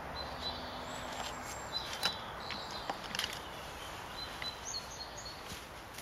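Small garden birds chirping in short, high calls over a steady outdoor background hiss, with a few soft knocks about two and three seconds in.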